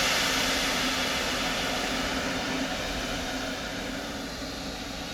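Loud hiss from a standing EA-class electric locomotive, starting suddenly just before and fading slowly, over a steady low hum.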